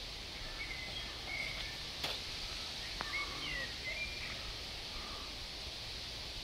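Outdoor ambience: a steady background hiss with faint, short bird chirps scattered through, and two small clicks, about two and three seconds in.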